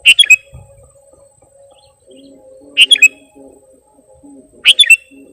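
Sooty-headed bulbul calling in a lure recording: three short phrases of a few quick notes each, about two seconds apart. A faint steady hum sits underneath.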